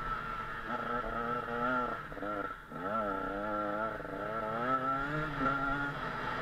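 KTM 125 SX two-stroke single-cylinder motocross bike engine running under throttle while riding. The pitch rises and falls, drops away briefly about two and a half seconds in, then climbs sharply again as the throttle is reopened.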